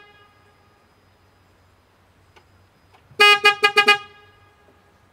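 A horn sounding four short toots in quick succession, about three seconds in.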